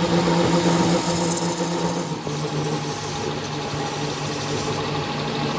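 An engine or motor running steadily with a constant hum, a little louder for the first two seconds before settling at a slightly different pitch.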